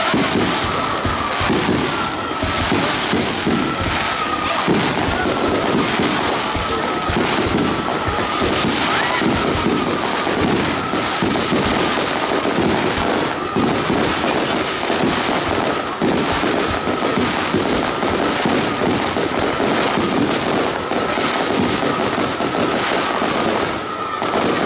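Many fireworks and firecrackers going off at once: a dense, unbroken clatter of pops and bangs, with a faint wavering tone running through it.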